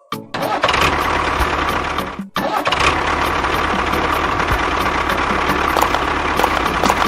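An engine starts and then runs steadily with a rapid chugging beat, cutting out for a moment about two seconds in before running on.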